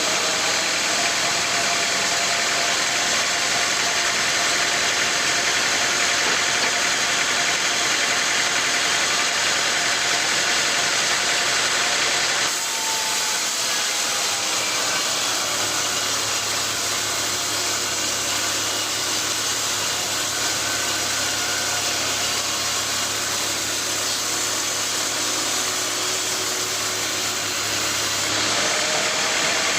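Sawmill machinery running, a steady engine-like drone with dense mechanical noise. The sound changes abruptly about twelve seconds in and again near the end.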